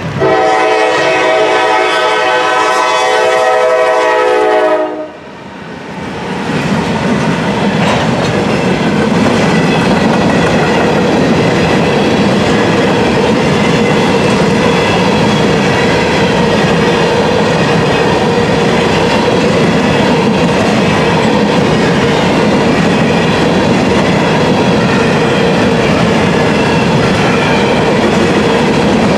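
A GE Dash 9-44CW locomotive's air horn sounds one long chord for about five seconds and cuts off sharply. The loaded grain train then runs past close by in a steady loud rumble, its wheels clacking over the rail joints.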